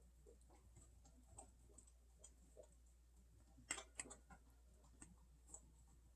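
Near silence with faint scattered ticks and clicks, and a sharper cluster of clicks a little under four seconds in.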